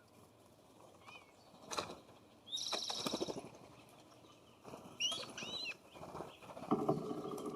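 Wild birds calling at a feeder. A harsh, buzzy call comes about two and a half seconds in, a couple of short arched notes around five seconds, and a lower rasping call near the end, with a few sharp knocks in between.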